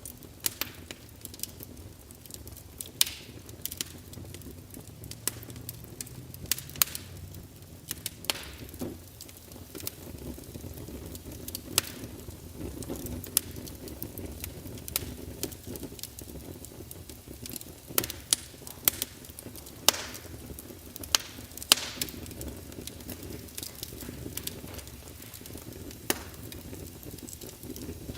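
Wood fire burning in a fireplace: a steady low rumble of the flames with irregular sharp crackles and pops from the burning logs, several a few seconds apart.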